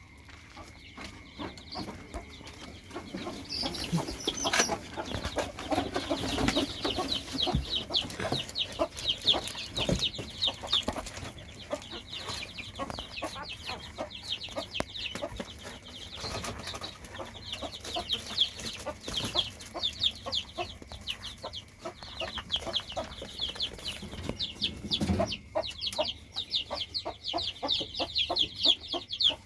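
Rapid runs of short, high-pitched falling peeps or squeaks from a young animal, several a second, coming and going in bouts, with a few soft thumps among them.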